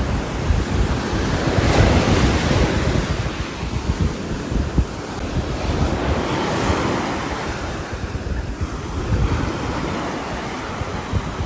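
Steady rain and wind noise with a deep rumble, swelling in a gust about two seconds in and again past the middle.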